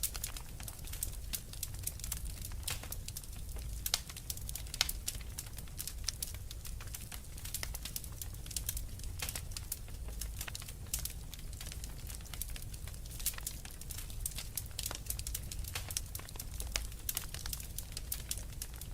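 Fireplace fire crackling, with frequent irregular sharp pops and snaps over a low steady rumble.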